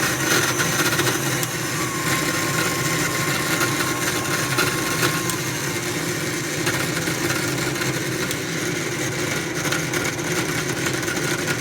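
KitchenAid Artisan stand mixer running steadily with a grinding noise, a rough, gritty sound over the motor's steady hum.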